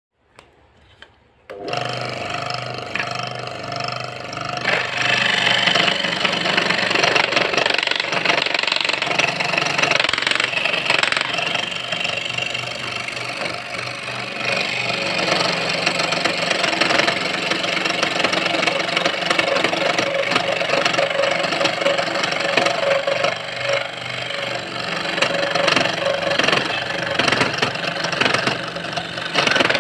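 Small motor-driven saw for cutting curves in wood starting up about a second and a half in, then running steadily. From about five seconds in, a louder, rougher noise joins as the blade cuts into the wood.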